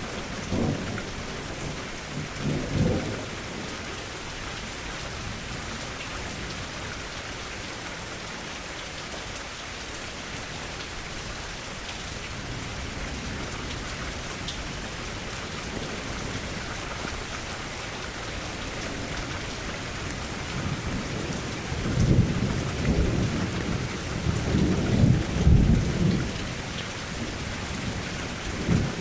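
Steady rain falling, with thunder rumbling: two short rumbles in the first few seconds, then a long rolling rumble in the last third that swells twice.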